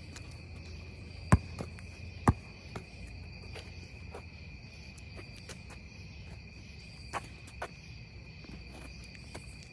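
Steady high-pitched trill of insects such as crickets, with sharp thuds of a basketball bouncing on the court: two loud ones about one and two seconds in, and a couple of fainter ones near the end.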